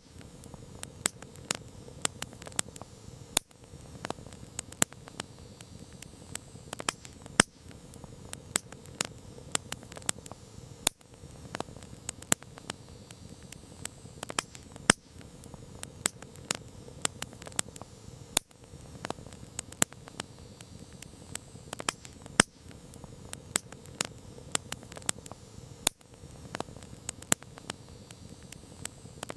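Wood campfire burning steadily, with frequent irregular sharp crackles and pops over a soft hiss of the flames.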